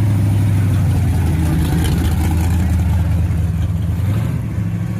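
A car's engine and exhaust running loud and steady at a low pitch, easing off about four seconds in.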